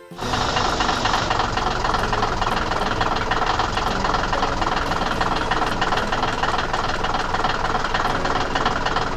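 Heavy machine engine running with a fast, steady rattle, cutting in just after the start.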